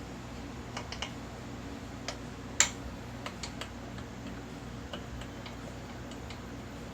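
Scattered light clicks and taps of hand tools and metal parts being handled, irregular and about a dozen in all, with one sharper click between two and three seconds in, over a steady low background hum.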